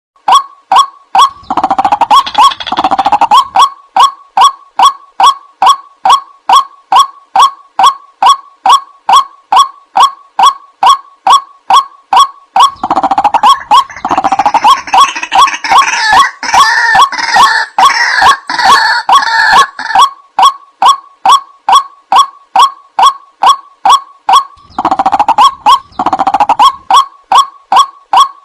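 White-breasted waterhen call, a croaking note repeated with very even spacing about twice a second. The calling thickens into a rougher, denser chorus near the start, through the middle and again near the end.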